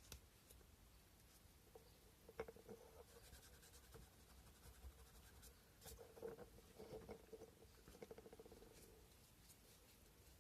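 Faint scratching of sandpaper rubbed by hand over a carved cow-bone fish hook, in short bursts of quick back-and-forth strokes with a few light clicks.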